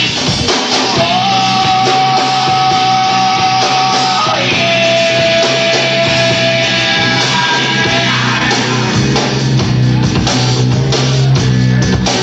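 Rock band playing live at full volume, with guitars, bass and drums. Two long held notes ride over the band: one lasting about three seconds, then a slightly lower one lasting about three and a half seconds.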